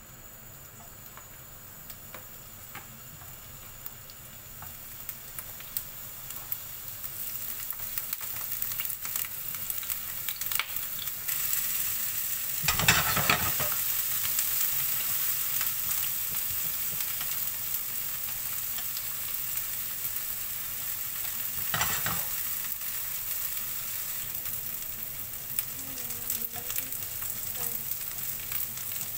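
Halved Brussels sprouts sizzling in hot oil in a nonstick frying pan, the sizzle growing louder as the pan heats and then holding steady. It swells louder twice, near the middle and about three-quarters through, with small clicks of metal tongs turning the sprouts.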